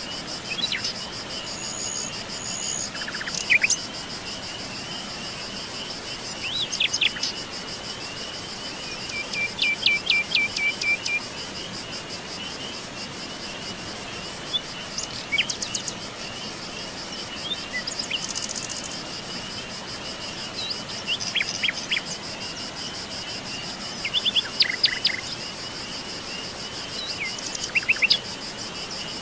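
Steady high-pitched insect chorus, cricket-like trilling, with songbirds calling over it in short, scattered chirps and quick sweeping notes, a flurry of them about ten seconds in and again near the end.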